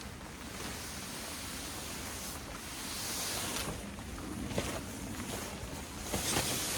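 Rustling and handling noise as wet tent fabric and gear are packed up, over a steady hiss of rain and wind, swelling about halfway through, with a few light knocks near the end.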